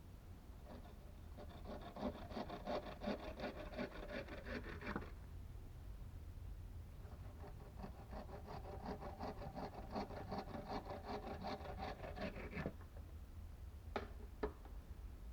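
A hand tool working wood in fast, even rasping strokes, in two bouts of about four and six seconds, then two sharp knocks near the end.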